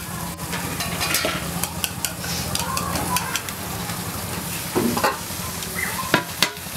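Greens frying in oil in a wok, a steady sizzle, with a few sharp clinks about five to six and a half seconds in.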